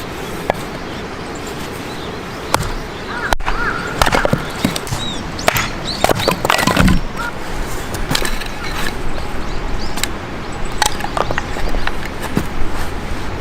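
Irregular clicks, crackles and light knocks over a steady background hiss, busiest in the middle, with a brief chirp about four seconds in.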